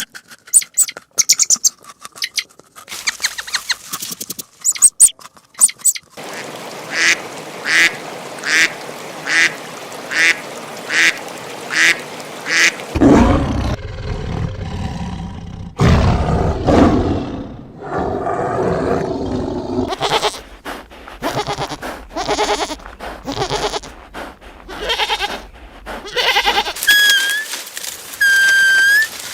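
A series of different animal and bird calls: a call repeated about twice a second for several seconds, then lower, rougher sounds, and a few whistled bird notes near the end.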